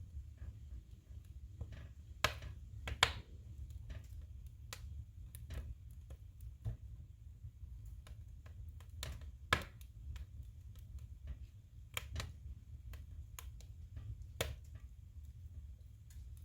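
Firewood burning in a wood stove: irregular sharp crackles and pops, with louder snaps about two and three seconds in and again a little past halfway, over a low steady rumble.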